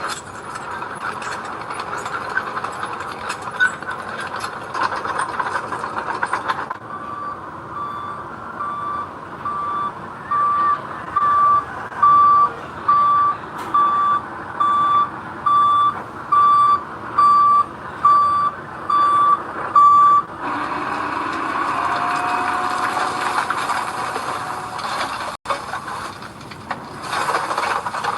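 Heavy vehicle's engine running, then its back-up alarm beeping steadily for about thirteen seconds, roughly one high beep every three-quarters of a second, as it reverses. The beeping stops and the engine runs on.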